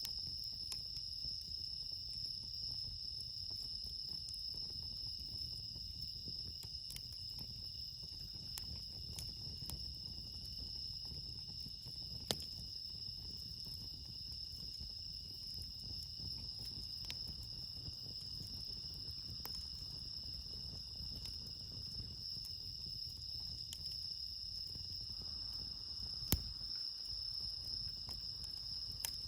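Steady night chorus of crickets, bell crickets among them, with scattered sharp pops from a wood campfire, the loudest about twelve seconds in and again near the end.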